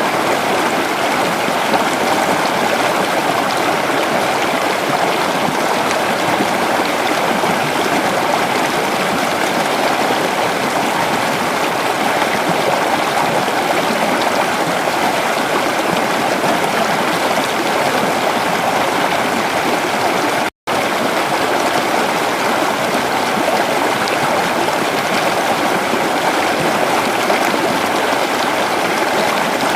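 Creek water flowing in a steady, even rush. It cuts out to silence for a split second about two-thirds of the way through.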